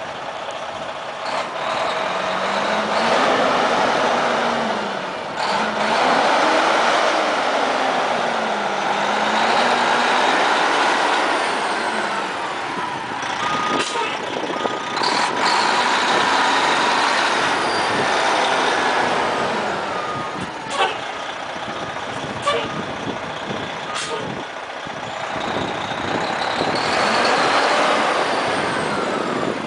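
A 1996 Ford LT9000 water truck's diesel engine running, its pitch rising and falling again and again as it revs. A reversing alarm beeps in a steady pattern through the middle, with a few sharp clicks and hisses.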